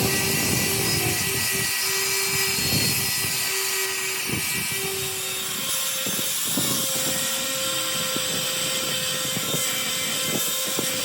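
A power tool's motor running steadily over a high hiss, with a few short knocks; its pitch steps up about six seconds in.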